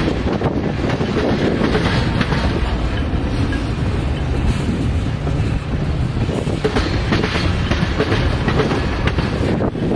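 Freight train cars rolling slowly past at crawling speed, a steady rumble with wheels clicking over the rail joints.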